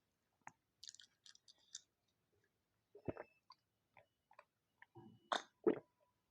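Close-miked chewing of rice, dal curry and fried potato: scattered wet smacks and short clicks from the mouth, with a few louder ones about three seconds in and near the end.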